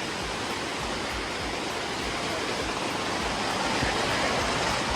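Rushing water of a cascading waterfall: a steady, even rush with nothing standing out.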